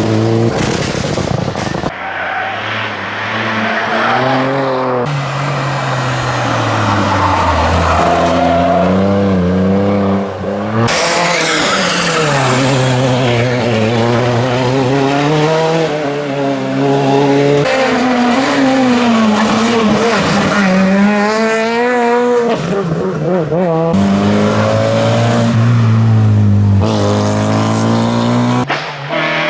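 Rally car engines revving hard, the pitch climbing and dropping again and again through gear changes, in several short passages joined by abrupt cuts.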